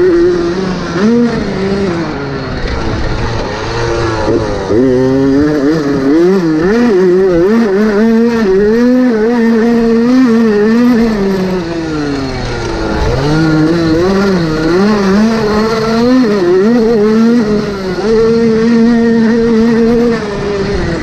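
Motocross motorcycle engine racing, its pitch climbing and dropping again and again with the throttle and gear changes, with a deep drop in revs about two thirds of the way through and stretches held at high revs.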